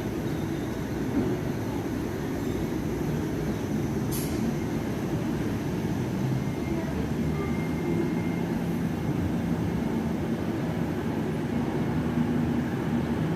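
A train running at a station: a continuous low rumble, with a steady mechanical hum coming in over the second half and a single sharp click about four seconds in.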